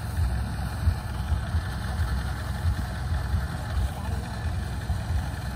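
The diesel engine of a tracked rice combine harvester runs steadily with a low rumble.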